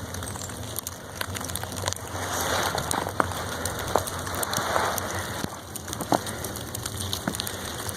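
Footsteps crunching through soft, wet snow, with scattered light ticks and patters.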